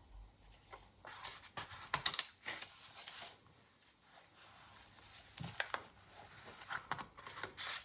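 Paper and card pages of a small handmade journal being handled and turned: light rustles and small taps, in clusters, the loudest about two seconds in.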